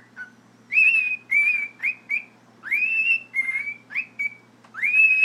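Cockatiel singing: a run of about ten clear whistled notes, each sliding quickly up and then held at one high pitch, some short and some long, ending abruptly near the end.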